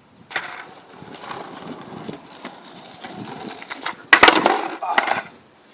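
Skateboard wheels rolling, then about four seconds in a loud cluster of sharp clacks and clatter as the board is popped for a tre flip attempt and hits the ground.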